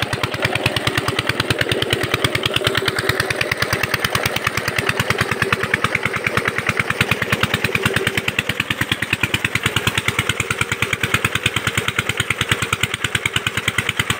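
Field Marshal 8 HP single-cylinder diesel engine driving a water pump, running steadily with a rapid, even chugging beat.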